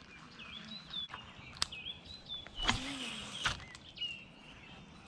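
Small birds chirping and whistling in short calls, with a sharp click about a second and a half in and a brief rush of noise just under a second long near the middle, the loudest sound.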